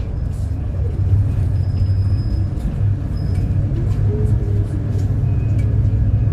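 City bus under way: a steady low engine drone with road noise, scattered small rattles and clicks, and a faint high whine for about a second, starting a bit over one and a half seconds in.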